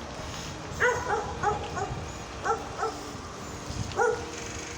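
A dog barking: about seven short, high-pitched barks, bunched in two quick runs and one more near the end.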